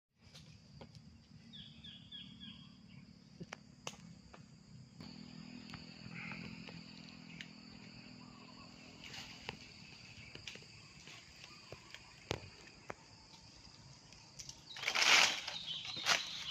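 Outdoor plantation ambience: a steady high-pitched drone, a short run of bird calls about two seconds in, and scattered faint clicks over a low rumble. Near the end comes a brief loud burst of noise.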